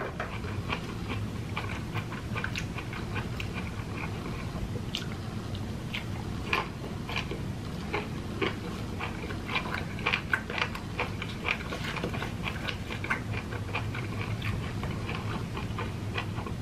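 A person chewing ripe jackfruit flesh: many small, irregular mouth clicks, with a low steady hum underneath.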